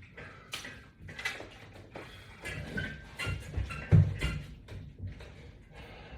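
Irregular soft knocks, scuffs and rustles from a person exercising on resistance bands or straps, with one louder knock about four seconds in.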